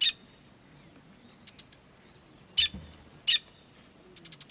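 Weaver birds calling: three loud, very short, sharp chirps spaced a second or so apart, a few softer chirps between them, and a quick stuttering run of calls near the end.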